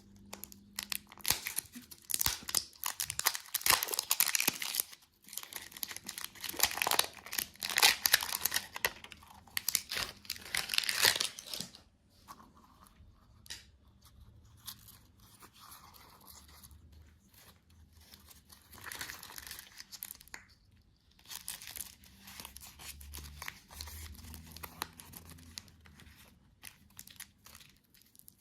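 Crinkly candy wrappers being torn open and crumpled close to the microphone, in loud dense bursts for about the first twelve seconds, then softer, sparser rustling.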